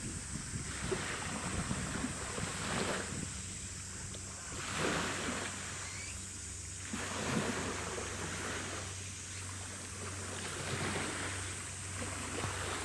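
Waves washing and splashing in repeated surges about every two seconds, over a steady low hum.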